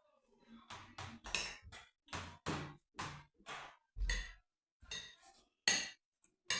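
Close-miked mukbang eating: a run of short chewing and smacking mouth sounds, about two to three a second, from mouthfuls of pepper stew and rice, with a light clink of cutlery.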